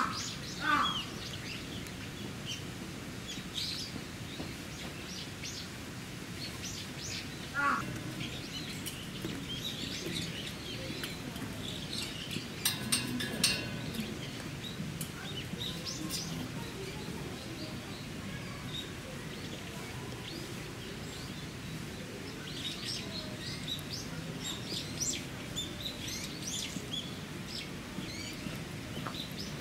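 Small birds chirping on and off over a steady background hiss, with one lower call about eight seconds in. A short run of sharp clicks about halfway through is the loudest moment.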